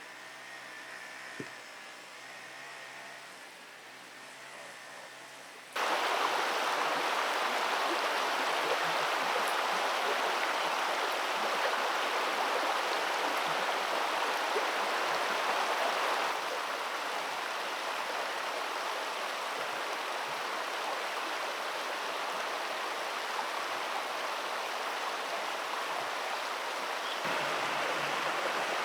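Rushing stream water, a steady loud hiss of flowing water that cuts in suddenly about six seconds in, after a few seconds of much quieter background.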